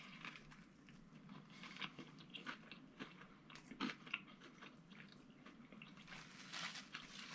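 A person chewing a bite of a crispy fried chicken sandwich (KFC's extra crispy chicken filet on a brioche bun), heard close up: faint, irregular crunches and mouth clicks.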